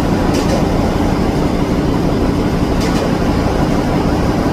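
Heavy machinery running with a loud, steady low drone, with two brief hisses, one near the start and one about three seconds in.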